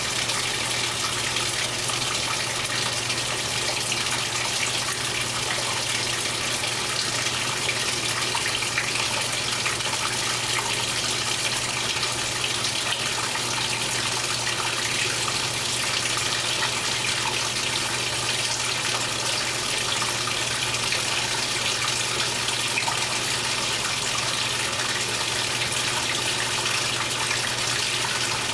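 Speed Queen top-load washing machine filling with water: a steady rush of water pouring into the tub, with a low steady hum underneath.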